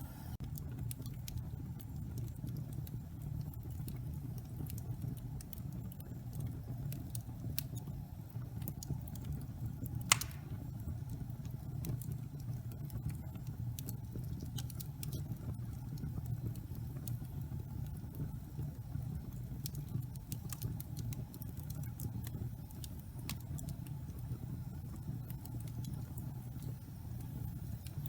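Wood fire burning in a fireplace: a steady low roar of flames with scattered sharp crackles from the burning logs, and one louder pop about ten seconds in.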